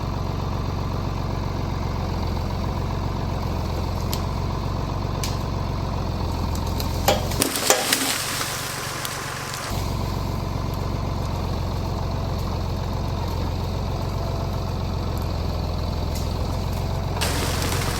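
Tractor engine running steadily, with a few sharp knocks about seven seconds in, after which the engine drops out briefly under a hiss-like noise.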